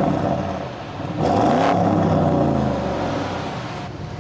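Engine of a car tuned to about 700 horsepower, revved while parked. A rev climbs about a second in and falls back, and the engine drops toward idle near the end.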